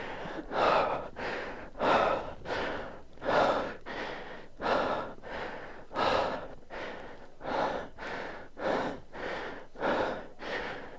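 A person breathing hard, with quick, heavy breaths at an even pace of about three every two seconds.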